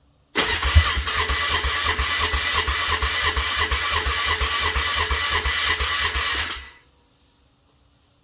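Motorcycle engine being cranked over by its electric starter in a cold start, with an even chug of about five compression pulses a second under the starter's whir; it does not catch and the cranking stops abruptly after about six seconds. The engine is very cold after a frosty night and refusing to start.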